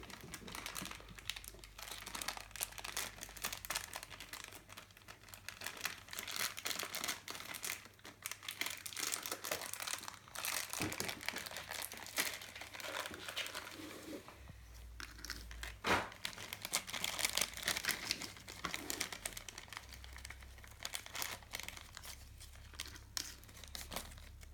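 Plastic and paper toy packaging crinkling and rustling as it is handled and unwrapped, with a sharper knock about sixteen seconds in.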